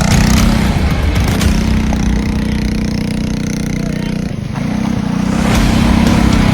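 Small mini bike engine running at steady revs. It drops off briefly about four seconds in and picks back up.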